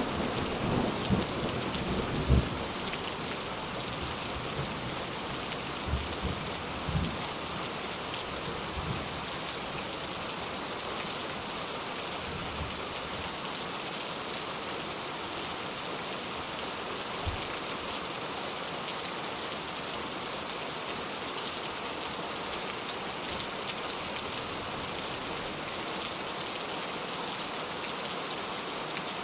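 Steady rain falling, with the tail of a thunder rumble dying away in the first couple of seconds. A few faint low rumbles come around six to seven seconds in.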